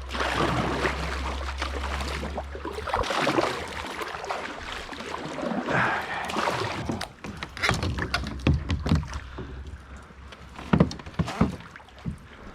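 Water splashing and sloshing around a kayak as it is manoeuvred in river current, with a low rumble in the first few seconds, then scattered knocks against the hull in the second half.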